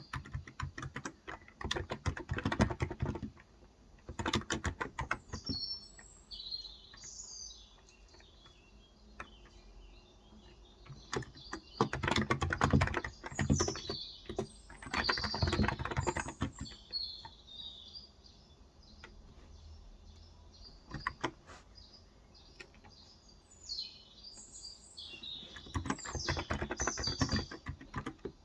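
Typing in bursts of rapid keystrokes on a Cox Endeavor electrostatic capacitive 35g tenkeyless keyboard, with pauses between bursts. Birds chirp throughout.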